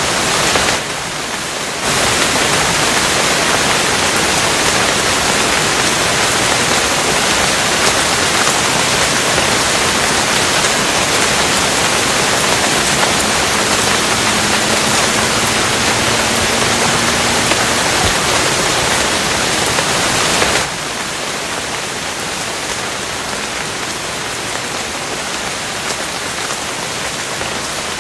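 Steady downpour of rain, an even hiss. It drops suddenly in level for about a second near the start, and again about two-thirds of the way through, where it carries on noticeably softer.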